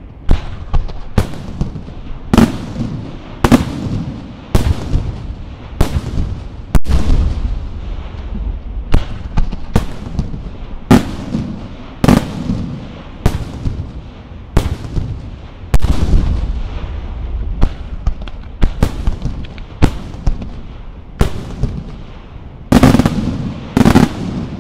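Aerial firework shells bursting in quick succession, about one sharp bang a second, each followed by a rolling echo over a low rumble.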